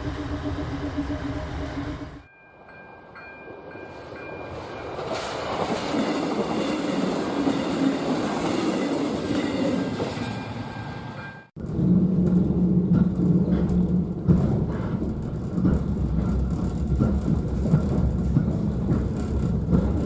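Train sounds in cut-together parts. About two seconds in, a level crossing's warning signal sounds as two steady tones while a train approaches and passes with a rising rush. About halfway through it cuts to the inside of a moving passenger carriage, with a low rumble and wheels clicking over the rail joints.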